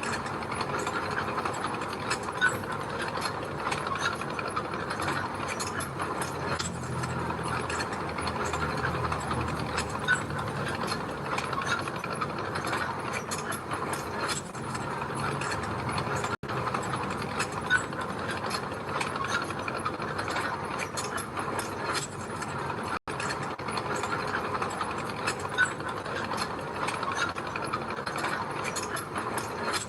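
Bulldozer working, its steel crawler tracks clanking and rattling steadily over a low diesel engine hum. The sound drops out for an instant twice.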